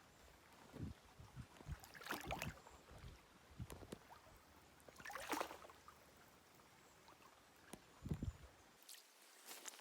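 Shallow creek water splashing and sloshing in a few short, irregular bursts, with low bumps in between, as someone wades and reaches into the water.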